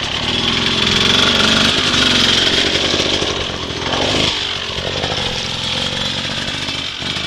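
Dirt bike engine running, its pitch shifting as the revs change.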